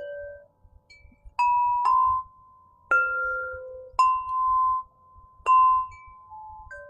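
Crystal harp played slowly, one note at a time at about one note a second, each a clear bell-like tone that starts sharply and rings on briefly before the next.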